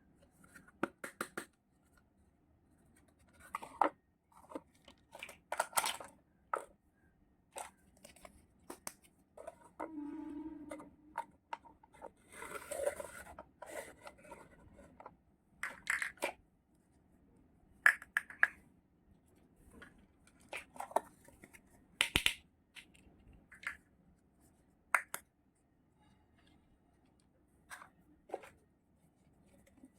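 Unboxing of miniature toy kitchenware: packaging rustling and tearing, with small toy pieces clicking and tapping in separate short bursts. There is a longer rustle of tearing about twelve seconds in, and a brief squeak a little before it.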